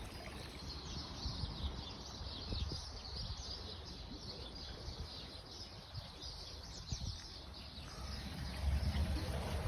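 Small birds chirping, a dense run of quick high calls, over a low rumble that grows louder near the end.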